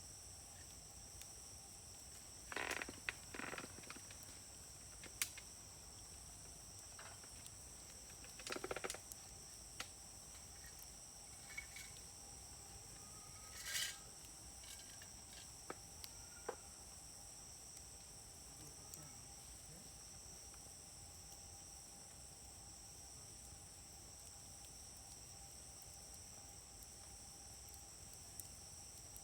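Wood fire burning with scattered pops and a few short bursts of crackling, over a steady high-pitched insect chorus.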